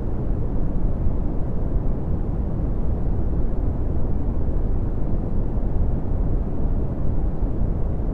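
Red (Brownian) noise: a steady, deep rumbling hiss whose energy falls off toward the higher pitches, with no change.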